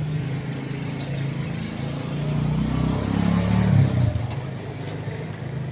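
A motor vehicle engine running, its hum rising in pitch and loudness about two seconds in, loudest just before four seconds, then falling away.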